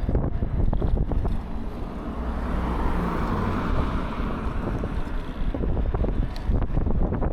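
Wind buffeting the microphone while riding a bicycle, a steady low rumble, with a hiss that swells and fades in the middle.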